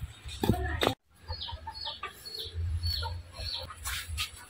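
Birds chirping: a run of short, high, falling chirps, about three a second, over a low background rumble, with a moment of dead silence about a second in.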